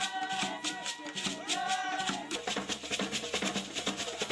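Percussion music with a fast, even beat. A voice sings a few held, wavering notes over it in the first two seconds, then deeper drum strokes come in.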